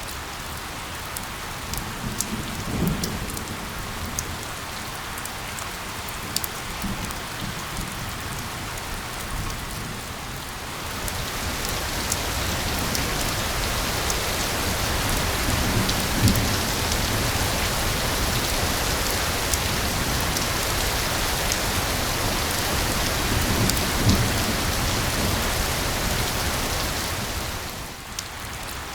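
Steady rain with individual drops ticking. The rain grows denser and louder about a third of the way in and eases again just before the end. A few low rumbles of distant thunder come through.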